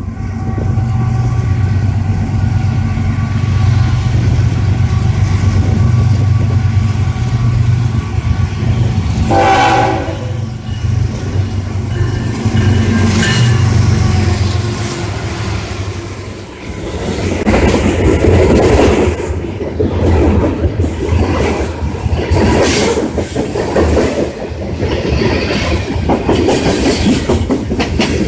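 Train passing close. A diesel locomotive's engine drones steadily, and a short horn sounds about ten seconds in. From about halfway on, the cars roll by with a rhythmic clickety-clack of wheels over the rail joints.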